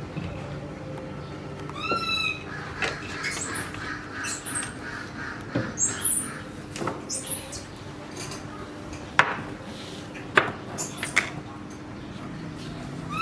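Short, high, squeaky animal calls: an arching call about two seconds in and again at the end, with a run of quicker chirps and a few sharp clicks in between, over a steady low hum.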